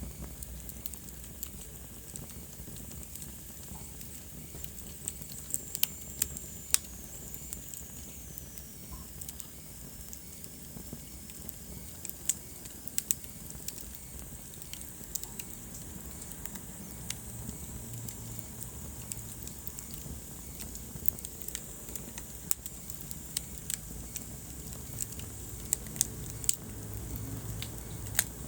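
Wood fire in a fireplace crackling, with sharp snaps and pops at irregular intervals over a low steady rumble of the flames. A thin whistling hiss slides down in pitch about six to nine seconds in.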